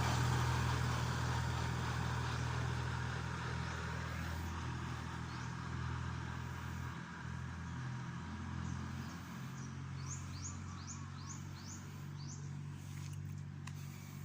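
Kubota L3608 tractor's diesel engine running steadily, its sound slowly growing fainter. About ten seconds in, a bird gives a quick series of about five short rising chirps.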